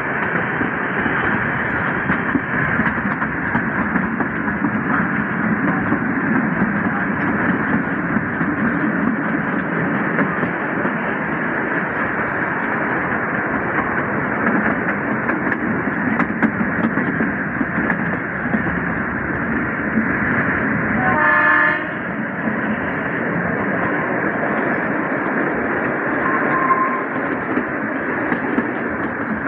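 Kalka–Shimla narrow-gauge toy train running, a steady noise of the moving coaches heard from on board, with one short horn blast about 21 seconds in.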